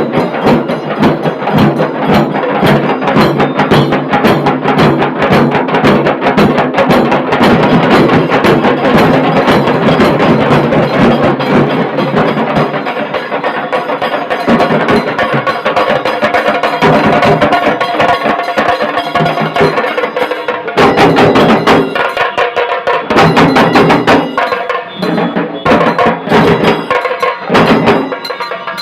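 Dhol-tasha drum band playing loud, fast, dense drumming, the sharp cracks of the tasha drums on top of the dhol. About two-thirds of the way through, the continuous roll breaks into hard accented strokes separated by short gaps.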